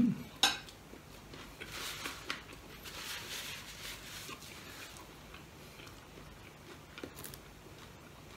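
A person chewing and crunching food close to the microphone, mouth sounds coming in soft irregular bursts, with a couple of sharp clicks near the start and near the end.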